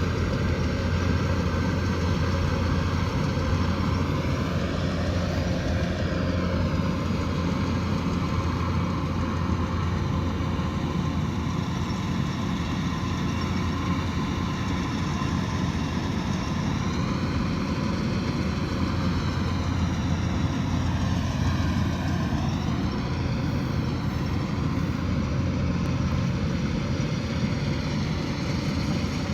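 Kubota DC108X combine harvester's diesel engine and harvesting machinery running steadily, a constant deep hum with a slowly wavering upper tone.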